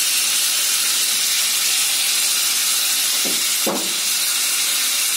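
Chopped tomatoes and onion masala frying in hot oil in a kadhai: a steady sizzle, with one short knock about three and a half seconds in.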